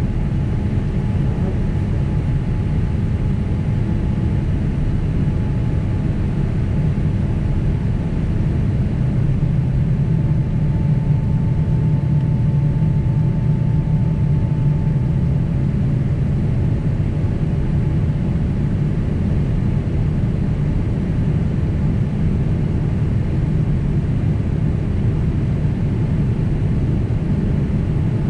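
Cabin noise of a Boeing 767 airliner in flight: the jet engines and airflow make a steady deep rumble with a faint hum over it, swelling slightly about ten seconds in.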